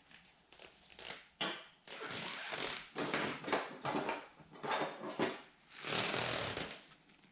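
A series of uneven hand-rubbing strokes against a surface, each lasting about half a second to a second, with a few short clicks between them.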